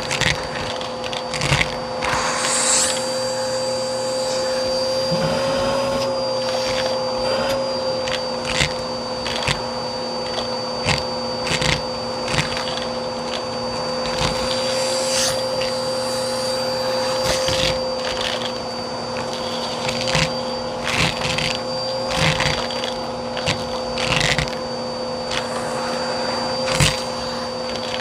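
Vacuum cleaner running steadily with a constant whine, picking up coins and crunchy debris: irregular sharp clicks and rattles as the bits are sucked through the hose.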